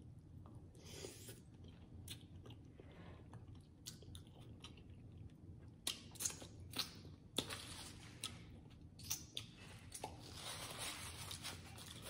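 Close-up mouth sounds of someone chewing tender, sauced turkey leg meat: soft, wet chewing with a few sharp lip smacks from about six to nine seconds in as fingers are licked.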